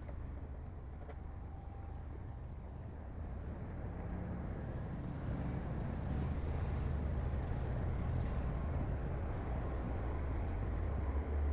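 Low diesel engine rumble of heavy earthmoving machinery, getting louder about halfway through.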